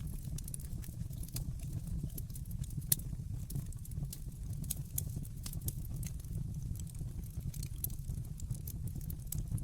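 Wood fire burning in a fireplace, crackling with frequent irregular sharp pops over a low steady rumble, one pop louder than the rest about three seconds in.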